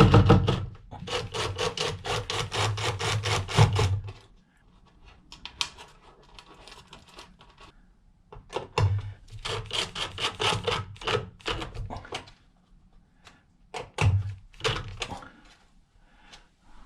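Scraping and rubbing in quick repeated strokes with a few knocks, in three spells with quieter gaps: hand work on wires and a fuse block while connecting low-voltage DC wiring.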